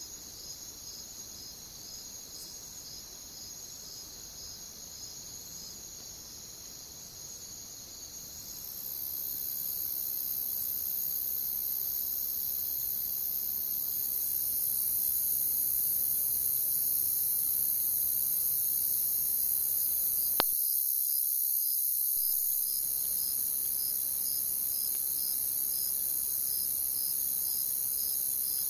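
Crickets chirping in a steady chorus: one regular pulsing chirp, about two to three a second, over a dense high trill that grows louder about a third of the way in.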